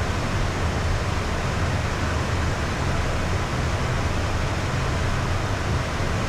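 Steady cockpit noise of a Beechcraft Premier 1A business jet in flight: an even rush of air with a low hum underneath.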